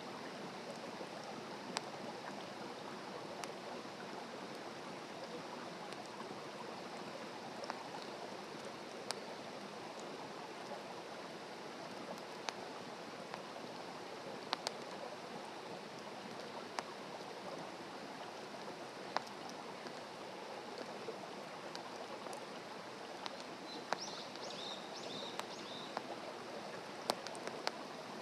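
Wood campfire burning: a steady hiss of flames with sharp crackles and pops every second or two.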